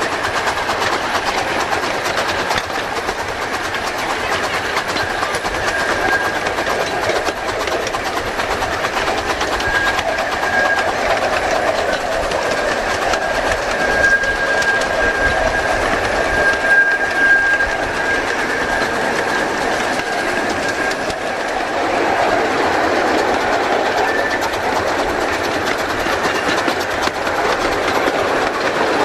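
Ride-on 15-inch gauge live-steam train running along the track, heard from aboard: a steady rattle and clatter of wheels over the rails. A thin high tone comes and goes through the middle.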